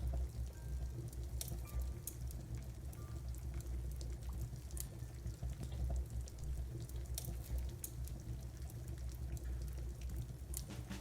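Steady rain with a low rumble, and scattered sharp pops from a wood fire crackling.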